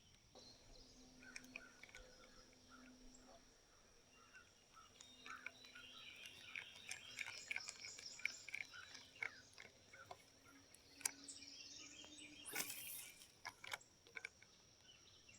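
Faint outdoor creekside ambience with scattered quiet bird chirps, and a brief rushing noise about twelve and a half seconds in.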